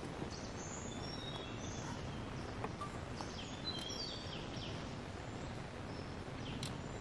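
Forest birds giving short high chirps and whistles, one cluster about a second in and another around four seconds in, over a steady low background rumble.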